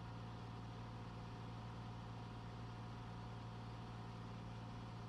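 Single-engine Cessna's piston engine and propeller droning steadily in flight, heard inside the cabin.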